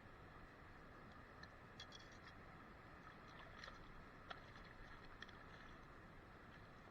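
Near silence: a faint steady hiss with a few soft, scattered clicks and taps in the middle.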